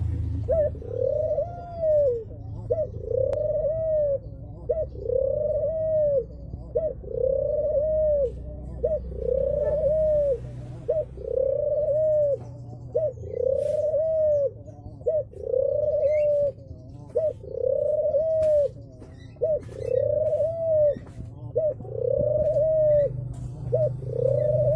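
Ringneck (Barbary) dove, a pied puter, cooing over and over. Each call is a short note followed by a longer rising-and-falling coo, repeated steadily about every second and a half to two seconds. A low rumble runs underneath.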